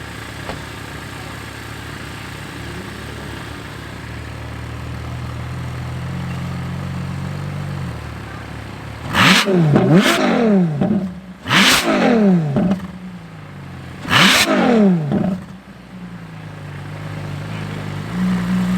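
Ferrari LaFerrari's naturally aspirated V12 idling, then from about halfway blipped four times in quick sharp revs that climb and drop straight back, before settling back to idle near the end.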